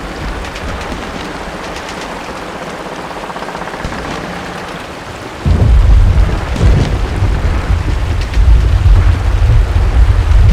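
Steady rain hiss, then about five seconds in a sudden loud, deep rumble of thunder breaks in and keeps rolling, swelling and fading, over the rain.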